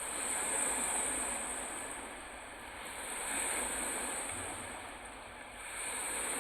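Wind-driven lake waves breaking on the shore, the wash swelling and falling about every three seconds under a steady high hiss.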